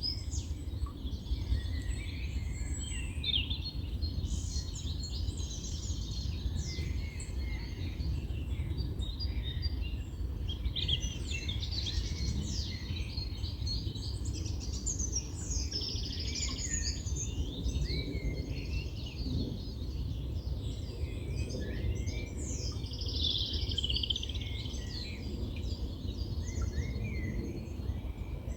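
Several small birds singing and chirping, their quick overlapping calls and trills going on throughout, over a steady low rumble.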